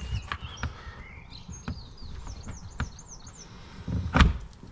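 Clicks and knocks from hands working on a car door's panel parts, with one loud knock about four seconds in. Over them a bird chirps in the background: a quick run of short, high, falling chirps in the middle.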